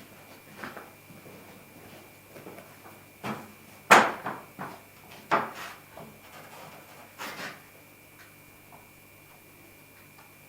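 Timber being handled and knocked into place: a series of wooden knocks with some scraping, the loudest knock about four seconds in.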